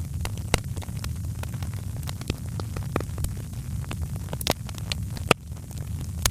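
Wood fire crackling: irregular sharp snaps and pops, a few louder ones, over a steady low rumble of the burning fire.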